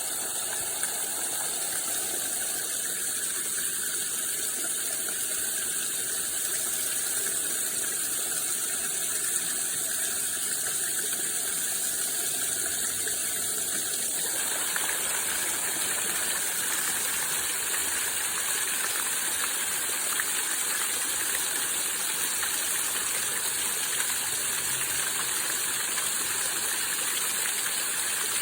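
Waterfall rushing, a steady, even wash of falling water; its tone shifts a little about halfway through.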